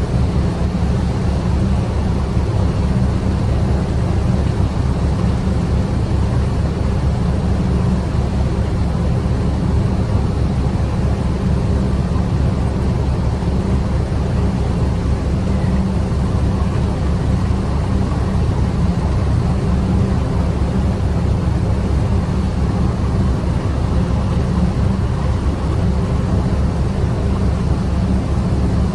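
A steady, loud low rumble that never changes, with no distinct events.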